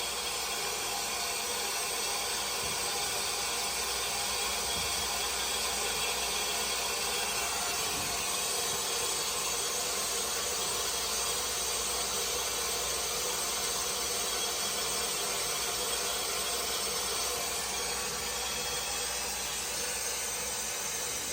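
Steady hiss of water flowing through the fill valve into an oil-fired boiler being refilled, so that the new low-water cutoff can sense water and let the burner fire.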